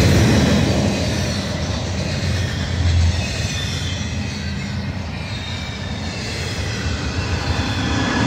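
Double-stack container well cars of a freight train rolling past close by: a steady rumble of steel wheels on rail with faint high-pitched wheel squeal over it. The rumble swells briefly about three seconds in.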